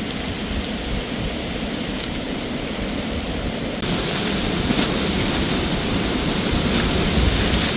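Steady rushing noise of a storm outdoors, growing a little louder and brighter about four seconds in.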